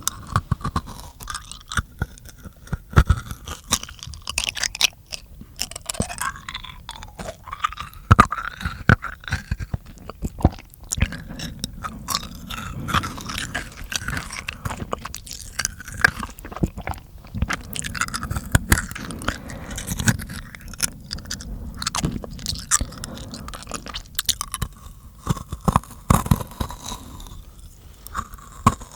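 Close-miked mouth sounds for ASMR: a dense, irregular run of sharp clicks and smacks from the mouth, tongue and lips.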